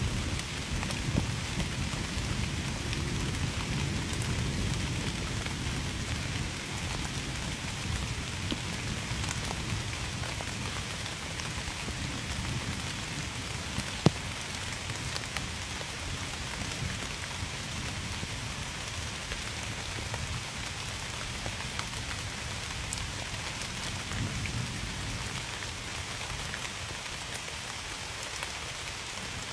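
Steady heavy rain falling, with thunder rumbling low through the first half and dying away later. A single sharp tap comes about halfway through.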